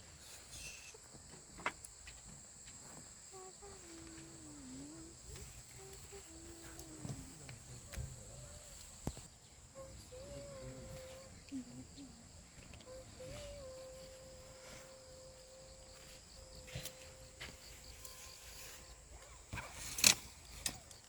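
Insects chirping in a steady high-pitched drone, with faint voices underneath and a sharp knock near the end.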